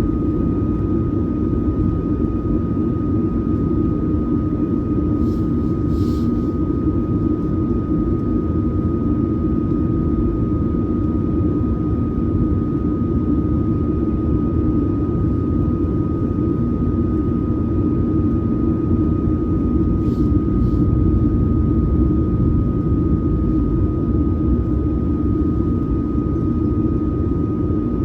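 Boeing 737-900ER cabin noise: a steady low rumble of the CFM56-7B jet engines and airflow, with a steady high whine over it. Two faint, brief hisses sound about five seconds in and again about twenty seconds in.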